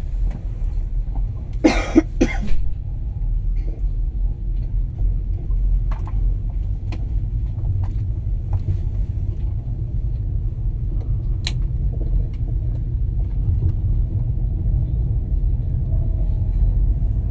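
Low, steady rumble of a passenger train moving off slowly, heard from inside the carriage, with a few scattered light clicks. About two seconds in, three quick loud bursts close together stand out above it.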